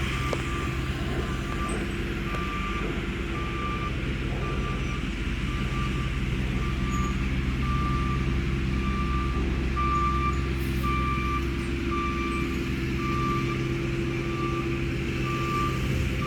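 A truck's reversing alarm beeping evenly and steadily over the steady drone of its engine running.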